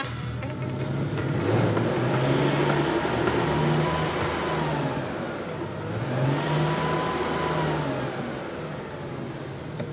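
Car engine pulling hard through the gears. Its pitch rises for several seconds, drops at a gear change about five seconds in, then rises again and eases off near the end.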